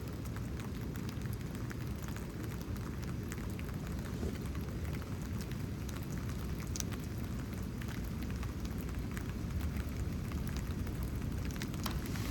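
Steady rain falling during a thunderstorm, a dense even hiss with many individual drops ticking through it.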